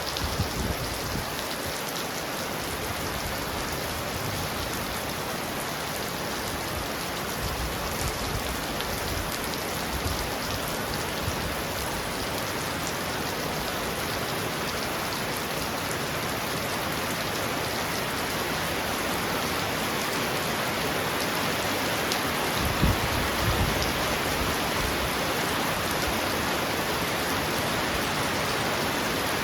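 Heavy rain falling steadily on a roof, an even hiss of many drops. A brief low rumble comes in about three-quarters of the way through.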